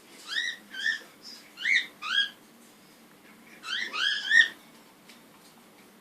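Baby cockatiel chirping: short upward-sliding chirps, about one every half second for the first two seconds, then a quicker run of four about four seconds in.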